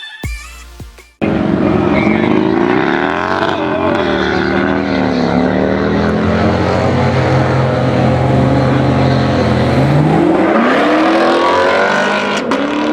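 Music cuts off about a second in, then a car engine revs loudly: the revs climb and drop several times, hold steady for a few seconds, then rise again near the end.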